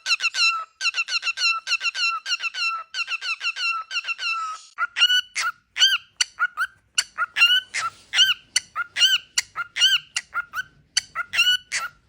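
Cockatiel calling in short, clear chirps: a quick run of many falling notes, several a second, for about the first five seconds, then slower, separate chirps that rise and fall in pitch.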